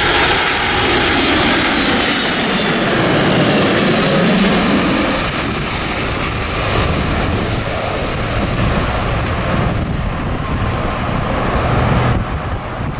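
Boeing 777-200ER's twin jet engines roaring as the airliner lands, their high whine sliding down in pitch over the first few seconds. The roar then settles into a lower, steadier rumble.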